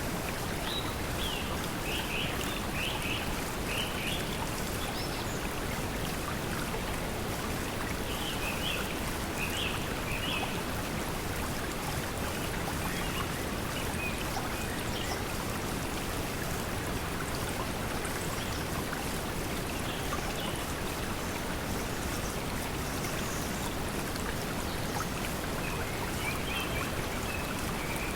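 Steady pink noise blended with flowing stream water, an even, unbroken hiss. Short high bird chirps come in a few brief clusters: just after the start, about a third of the way in, and near the end.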